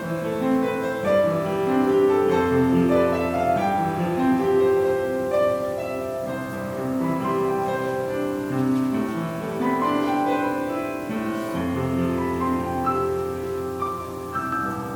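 Slow instrumental music, led by piano, with notes held and changing about once a second.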